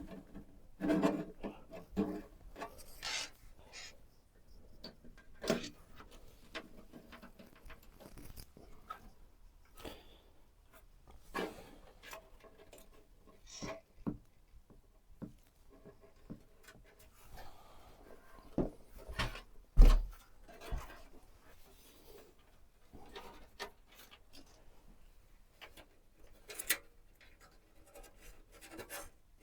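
Handling noises while assembling a PC in its case: scattered light plastic and metal clicks and rubbing. One louder knock comes about twenty seconds in.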